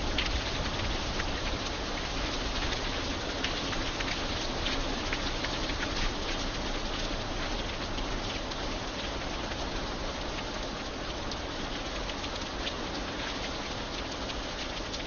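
Steady light rain falling on an iron bridge, an even hiss dotted with many distinct drop ticks.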